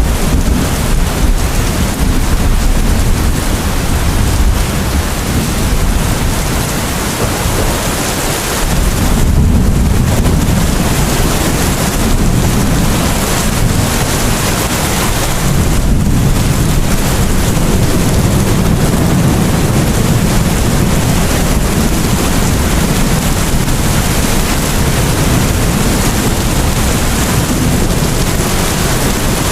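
Steady rain falling, a dense hiss without a break, with low rolls of thunder rumbling underneath that swell and fade several times.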